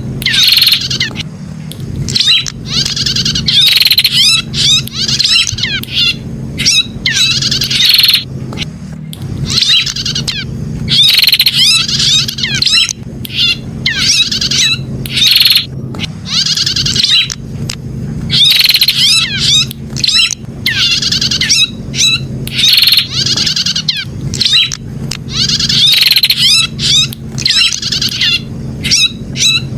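Prinia (prenjak) song: rapid, chirping phrases in bursts every second or two, repeated over and over, over a steady low hum.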